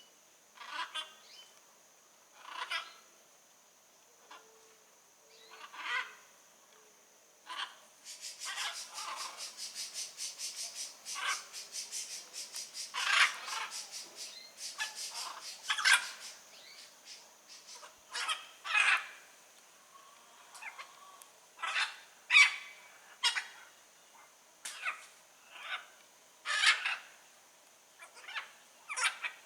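Blue-and-yellow macaws giving harsh, raspy squawks, one at a time with pauses between. From about eight seconds in to about sixteen, a fast rattling chatter runs under the calls. A faint steady high-pitched whine lies beneath.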